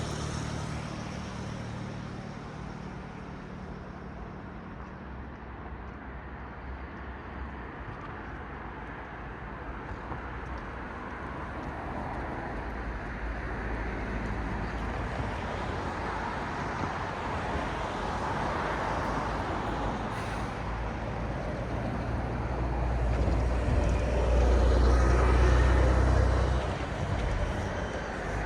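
Road traffic: cars passing one after another, their tyre noise swelling and fading. A heavy vehicle with a deep low rumble passes loudest near the end, then drops away.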